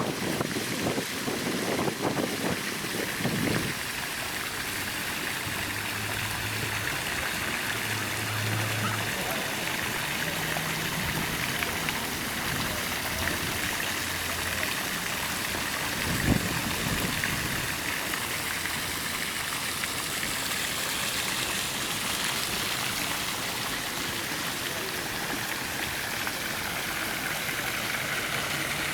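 Steady trickle and splash of running water into a goldfish pond. A single soft knock comes about halfway through.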